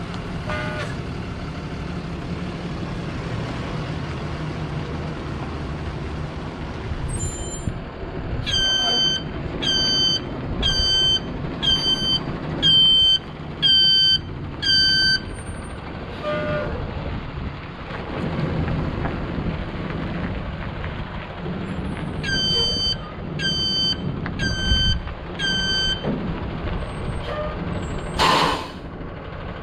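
2013 Ford F750 water truck's engine running steadily while its backup alarm beeps about once a second, in two runs of about seven and then five beeps, signalling the truck is reversing. Near the end a short hiss, typical of an air brake release.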